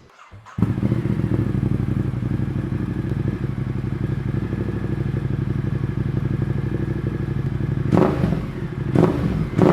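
Ducati motorcycle engine starting through an SC-Project slip-on exhaust with its dB killer removed, catching about half a second in and settling into a steady idle, with three short throttle blips near the end.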